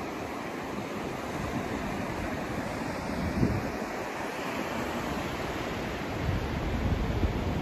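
Continuous rushing white-noise sound, heaviest in the low and middle range, with a low rumble that swells about six seconds in.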